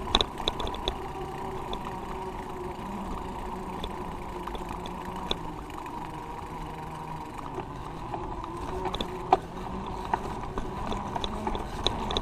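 Steady road and traffic noise heard while riding a bicycle, with vehicle engines running and scattered light clicks, one sharper click about nine seconds in.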